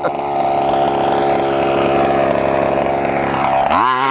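The 32cc two-stroke engine of a 1/5-scale FG RC truck running at high revs, holding steady, then near the end the revs drop sharply and climb straight back up as the throttle is let off and opened again.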